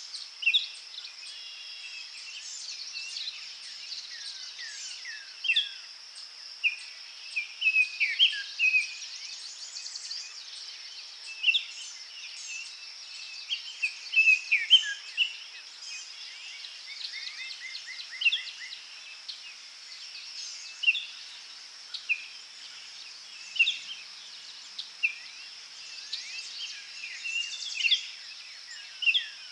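Forest ambience: many birds chirping and whistling in short, separate calls, over a steady high insect-like buzz.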